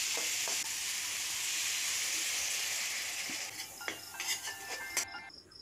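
Okra in spice paste sizzling in a metal kadai, the paste just sprinkled with water, while a metal spoon stirs and scrapes the pan with a few light clicks. The sizzle fades after about three and a half seconds and faint music comes in near the end.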